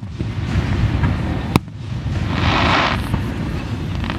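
Fireworks display: one sharp bang about a second and a half in, followed by a hissing crackle lasting under a second, over a steady low rumble.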